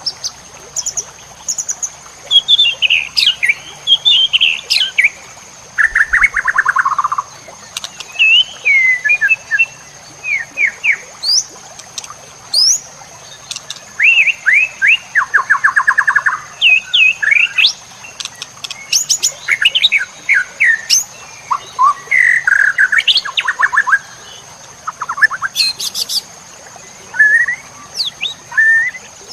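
White-rumped shama (murai batu) singing a varied, loud song of short whistled phrases, chips and quick note runs, full of 'isian' (fills mimicking other birds' calls). Two fast trills of rapidly repeated notes stand out, one about six seconds in and one about fifteen seconds in.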